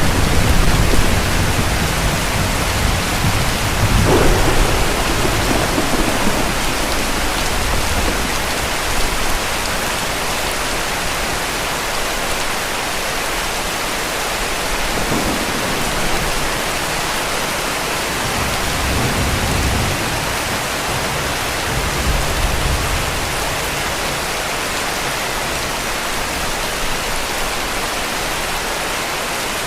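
Heavy rain falling steadily with a dense hiss. Low rumbles of distant thunder fade away over the first several seconds, and another brief rumble comes about two-thirds of the way through.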